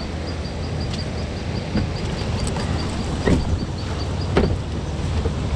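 Kayak under way on an electric motor: a steady low rumble of water and wind on the microphone, with two short splashes about three and four seconds in. A fast, even series of high chirps, about five a second, runs through the first four seconds and then stops.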